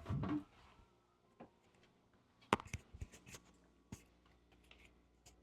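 Scattered faint clicks and light rustling of something being handled in a small, quiet room, after a brief louder sound right at the start.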